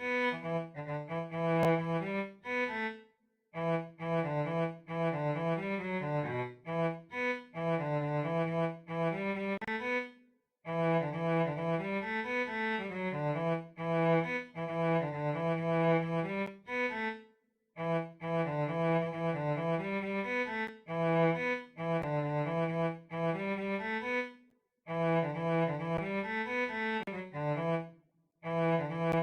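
Cello playing a lively melody of short, detached notes in phrases, each phrase cut off by a brief silence before the next begins.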